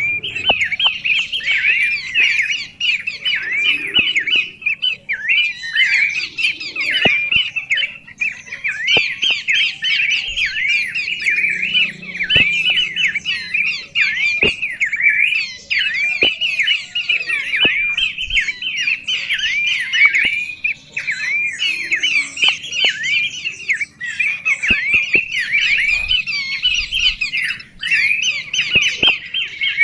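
A songbird singing a continuous, rapid chattering song of quick rising and falling chirps, with only brief pauses. Occasional sharp clicks sound now and then.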